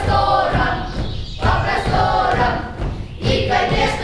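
A group of voices singing together in phrases over backing music with a low thudding beat.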